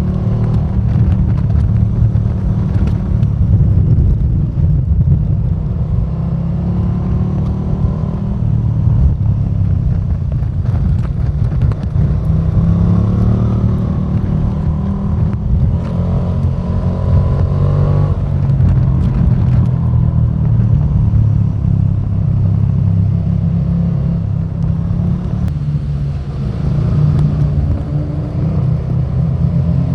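KTM 1290 Super Duke R's 1301 cc V-twin engine running under way, its note climbing and falling repeatedly as the bike accelerates and shifts gear, over a constant low drone.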